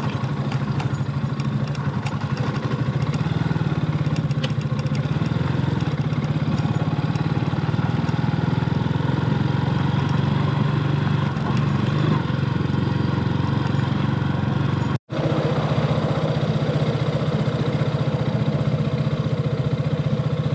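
Motorcycle engine running steadily under way, with a brief cut-out about fifteen seconds in.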